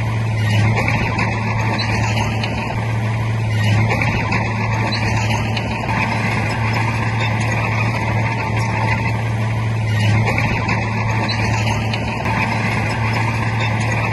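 Bulldozer's heavy diesel engine running steadily under load, its sound swelling and easing every few seconds.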